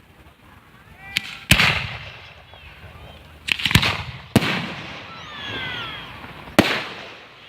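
Aerial fireworks shells bursting overhead: about six sharp bangs, some in quick pairs, each trailing off in a rumble.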